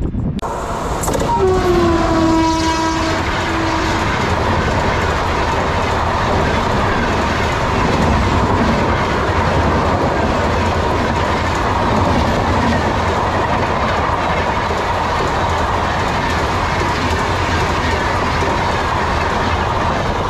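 A fast train of LHB passenger coaches passing close by. The sound cuts in suddenly, and a locomotive horn blares for about three seconds near the start. After that comes the steady rumble and clatter of wheels on rail as the coaches run past, with a steady high ring running through it.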